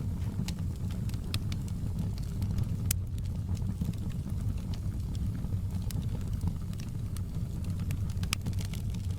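Fireplace fire crackling: scattered sharp pops over a steady low rumble.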